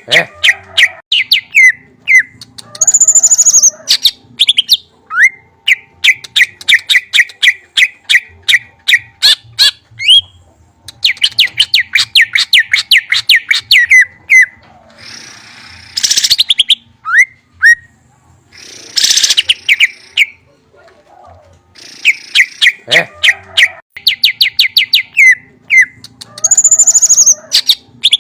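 Songbird singing loudly in fast series of sharp repeated chirps and trills, broken by a few higher shrill notes. The same run of phrases comes round again near the end, as in a looped masteran recording used to train cage birds.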